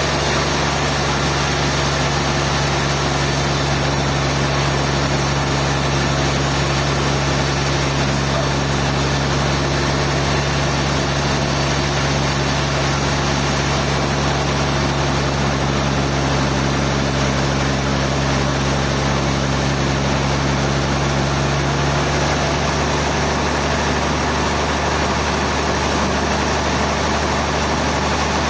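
Sawmill machinery running steadily: a constant, even engine-like hum that does not change.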